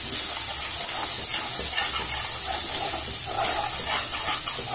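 Ground masala paste and spice powders sizzling steadily as they fry in hot oil in a pressure cooker, stirred with a steel spoon.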